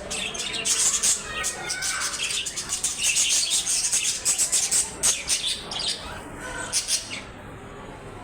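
A flock of small birds chirping, a dense run of quick, high chirps that thins out about seven seconds in.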